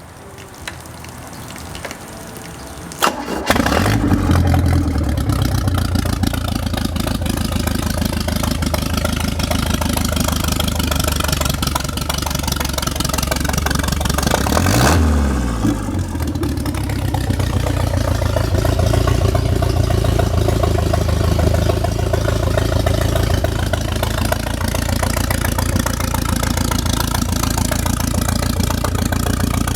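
Mercruiser 3.0-litre 140 hp four-cylinder marine engine starting: it catches about three and a half seconds in and then runs steadily, with one brief rev up and back down about halfway through.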